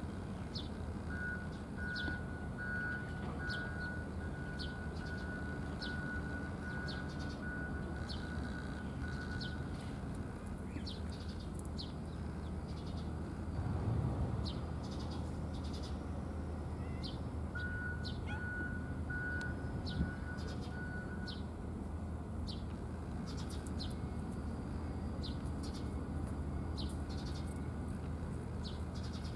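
A small bird repeating short high chirps about once a second, over a steady low rumble. A pulsed beeping tone sounds for several seconds in two stretches, and there is a brief soft thump near the middle.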